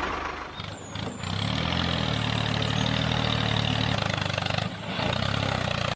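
Mini tractor engine running with a low, even chug. It falls away briefly about half a second in, then picks up and runs steadily, with another short dip near the end.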